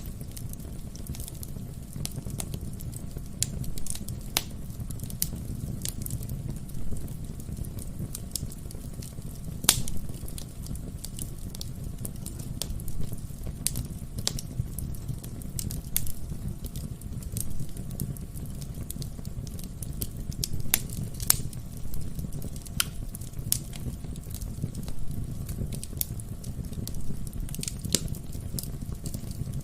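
Wood fire burning in a fireplace, crackling with irregular sharp pops over a low steady rumble of the flames. The loudest pops come about a third of the way in and again just past two thirds.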